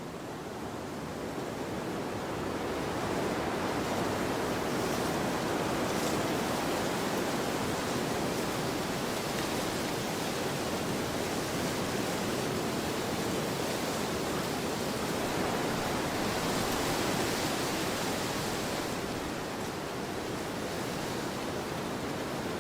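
Wind blowing across a field, a steady rushing that swells about two seconds in and eases slightly near the end.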